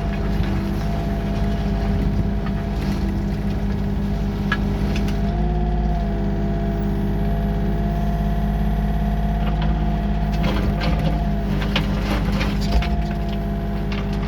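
A diesel engine of heavy machinery running steadily. Its pitch lifts briefly about a third of the way in, and there are a few short clanks and rattles in the second half.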